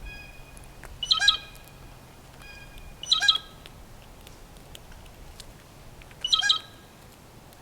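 A wild bird calling loudly three times, a second or two apart, each call short.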